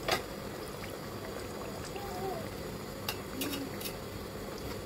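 Half-cake (kangumu) dough pieces frying in a pan of oil that is still heating up, a steady sizzling. A metal slotted spoon clicks sharply against the pan a few times about three seconds in.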